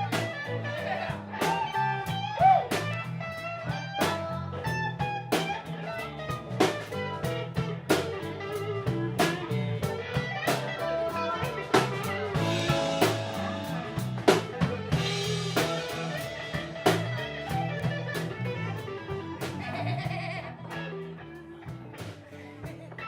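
Live blues band playing: electric guitar over bass and a drum kit keeping a steady beat, easing off slightly near the end.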